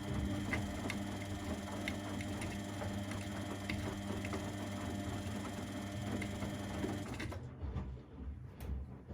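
Household laundry machine running with a steady motor hum and light ticking, which cuts off abruptly about seven seconds in, leaving a quieter low rumble with a few thumps.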